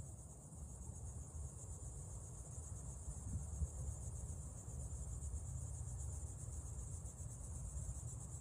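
Steady high-pitched insect chorus, a continuous fast trill like crickets, over a constant low rumble.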